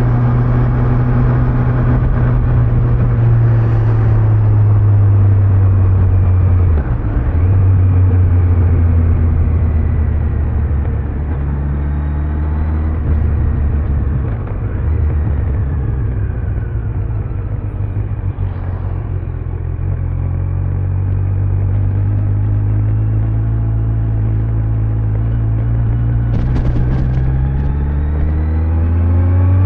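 Kawasaki Z900's inline-four engine under way at road speed, heard from the rider's back, with a short break in the engine note about seven seconds in. The revs ease off and fall through the middle, then climb steadily near the end as the bike accelerates again.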